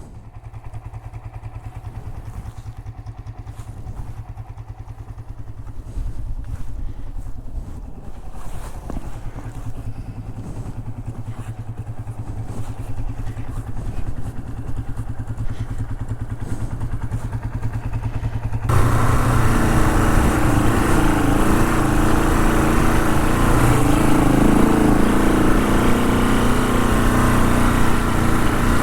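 Honda CL450 parallel-twin motorcycle engine running at low, even revs while riding a trail. About two-thirds of the way through the sound suddenly jumps louder and becomes noisier.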